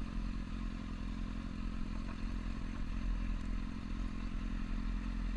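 Motorcycle engine running steadily, with an even low beat and no revving.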